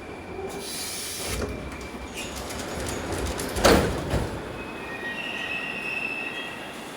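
Ezh3 metro train running on the rails, with thin high wheel squeals and one loud knock about halfway through.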